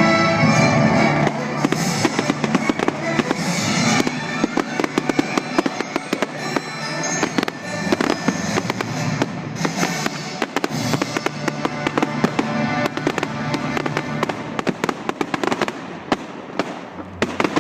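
Fireworks display: a dense, continuous run of crackling and banging bursts, with music under it for about the first second.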